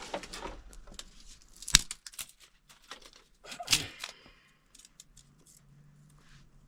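Freshly lit firewood cooking fire crackling, with scattered sharp snaps and two louder cracks about two and four seconds in, then fainter ticking.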